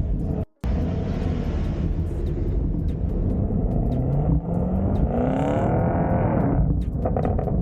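Car engine rumbling, then accelerating, its note climbing steadily for about three seconds before the rising note stops abruptly about a second before the end, leaving the low rumble. A brief dead gap about half a second in interrupts the rumble.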